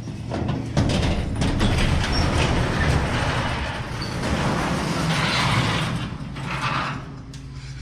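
Harley-Davidson motorcycle running under way, its steady engine note under heavy wind rush on the helmet microphone. The rush builds about a second in and eases near the end.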